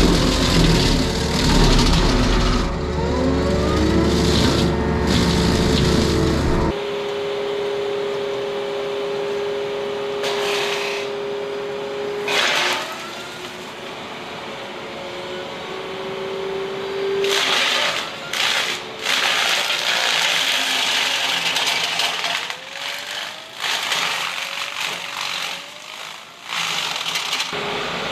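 Eterra EX-30 excavator flail mower running with its excavator's engine, the rotor's steady whine shifting in pitch under load, and bursts of crunching and splintering as the flails chew through brush and wood. The heavy low rumble drops out abruptly about seven seconds in.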